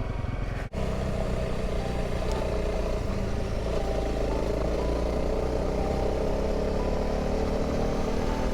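Honda CRF300 Rally's single-cylinder four-stroke engine running steadily as the motorcycle rides along, after a brief dropout near the start.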